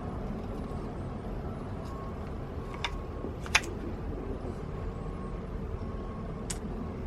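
A few sharp metallic clicks of hand tools over a steady low rumble, with one louder click about three and a half seconds in.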